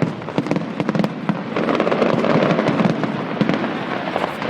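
Fireworks display: rapid bangs and crackling bursts, growing denser about a second and a half in.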